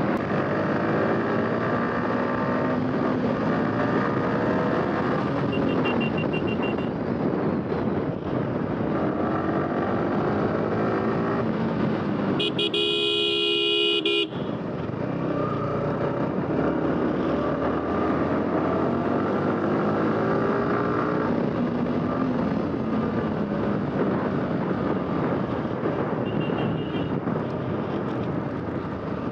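Yamaha R15 V4 155 cc single-cylinder engine running under way, its pitch rising and falling several times with the throttle. About twelve seconds in, a vehicle horn sounds steadily for about two seconds.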